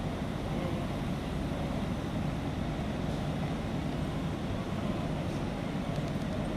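A steady low engine rumble, a vehicle idling without change in pitch.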